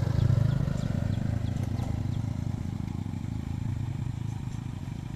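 A small engine running with a fast, even pulse, loudest at the start and slowly fading.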